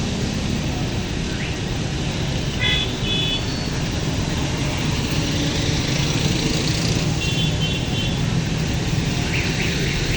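Road traffic running steadily, with a low engine rumble and hiss, and two brief high toots about three and seven seconds in.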